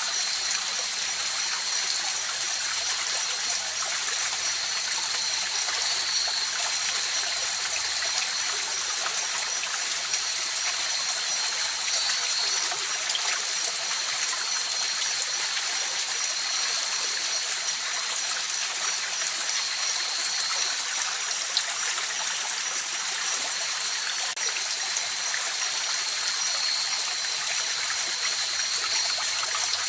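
A mountain river flowing steadily, an even rush of water with no change. Above it runs a faint, steady, high thin tone.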